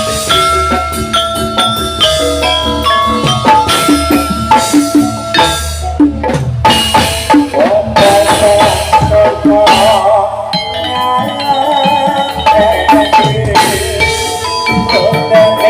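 Loud Javanese gamelan music played through a sound system: struck metallophones ringing in repeating patterns over drums.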